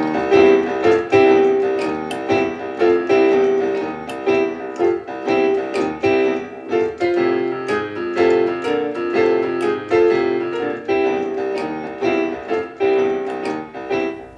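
Background piano music: a steady run of notes with a chord accompaniment.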